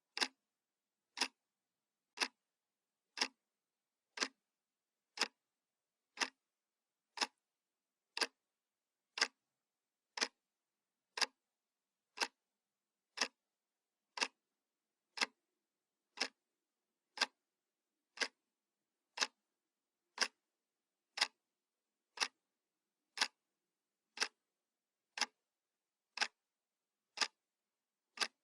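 Analog wall clock ticking: one sharp, dry click every second, perfectly even.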